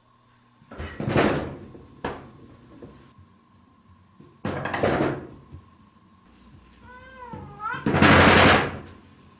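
Rapid knocking on a door in three bouts, about a second in, near the middle, and loudest near the end. A short wavering cry comes just before the last bout.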